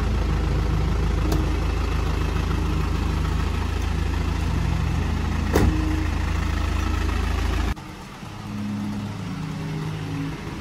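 Car engine idling close by, a steady low rumble, with a single sharp knock about halfway through. Near the end the rumble cuts off abruptly, leaving quieter background with a faint low hum.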